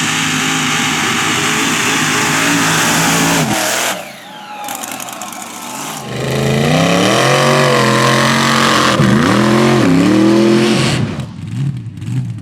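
Mega mud truck engine running at high revs under load, then dropping off sharply about three and a half seconds in. It comes back loud about six seconds in, revving up and down several times before falling away near the end.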